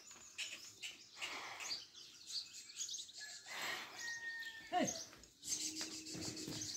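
Small birds chirping in quick, high calls. About two-thirds in comes a short call sliding sharply down in pitch, the loudest sound, and near the end a low steady tone holds for about a second.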